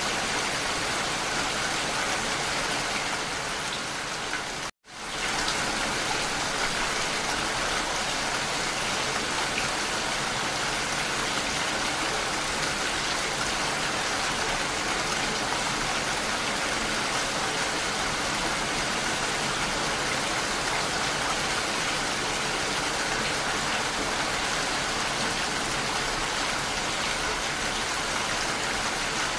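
Steady rain falling, an even hiss. It breaks off for a split second about five seconds in, then carries on the same.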